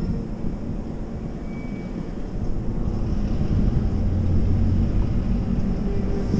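Diesel locomotive and train running past below, a steady low rumble that grows a little louder about four seconds in.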